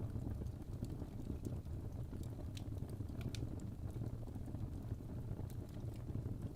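Wood fire burning in a fireplace: a steady low rumble of the flames with sharp crackles and pops from the logs, several a second.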